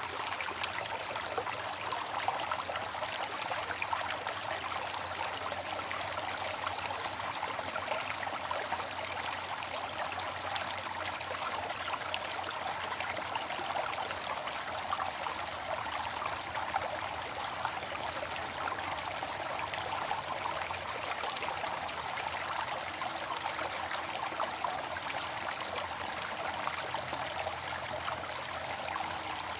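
Water fountain splashing and trickling steadily, a continuous even patter of falling water.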